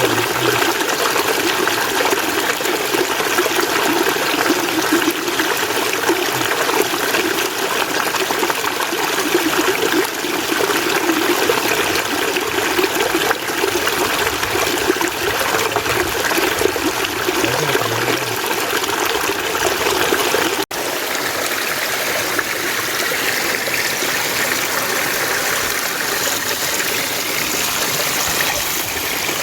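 Mountain stream water rushing and splashing steadily over rocks. About two-thirds of the way through the sound cuts out for an instant and resumes slightly lighter.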